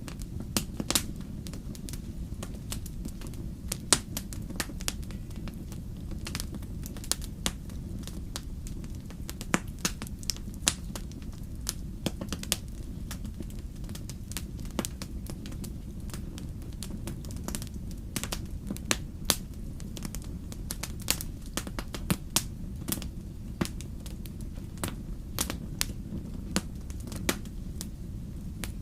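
Wood fire burning, with a steady low rumble and irregular sharp crackles and pops of burning logs.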